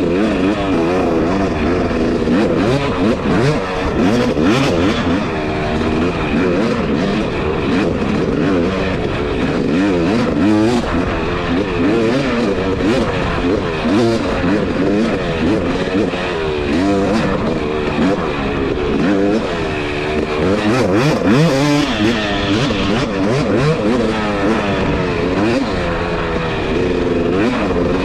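Two-stroke dirt bike engine revving up and easing off over and over while being ridden, its pitch rising and falling constantly.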